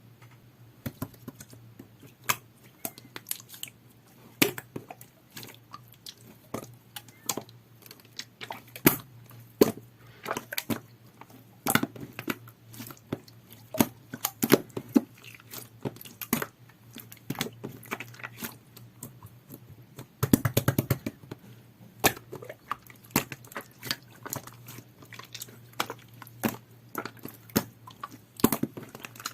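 Clear, jelly-textured slime being squished and played with by hand, giving irregular sharp clicks and pops, with a dense rapid run of them about twenty seconds in.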